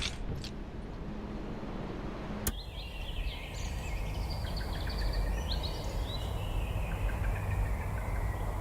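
Off-road motorcycle riding past over wind and outdoor noise; after an abrupt change about two and a half seconds in, its high whine rises in steps and falls away again.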